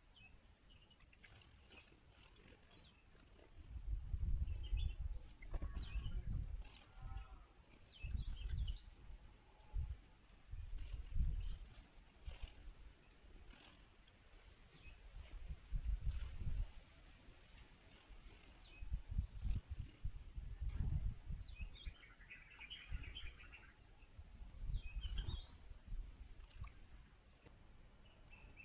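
Garden birds giving short, faint chirps and calls on and off, with a brief burst of chatter about three quarters of the way through. Irregular low rumbles, typical of wind buffeting the microphone, come and go and are the loudest sound.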